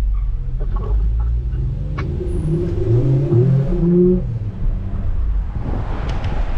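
Car engines running with a steady deep rumble; about one and a half seconds in, an engine revs up, its note rising for a couple of seconds before dropping away about four seconds in. A broad rush of noise follows near the end, as of a car going by.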